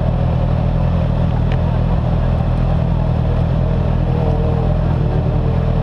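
Race motorcycle engine idling steadily, heard close up from the bike itself, among other motorcycles idling on the grid.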